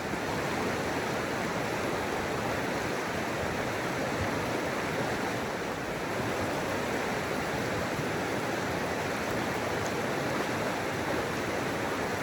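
The Madison River's current rushing steadily, an even wash of water noise with no change.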